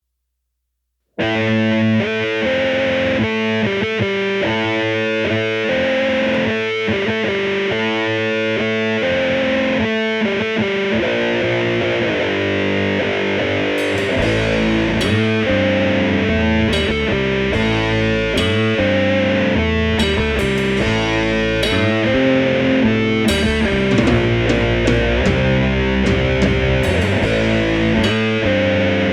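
Doom metal song opening: a distorted electric guitar riff starts about a second in. About halfway through, the full band comes in with heavy bass and drums with crashing cymbals, at a slow, heavy pace.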